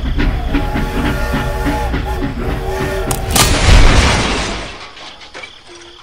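Steam-train chugging, a steady beat of about five a second with ringing tones over it, cut off about three and a half seconds in by a sudden loud crash that rumbles and fades over about a second: the toy train derailing into a pit.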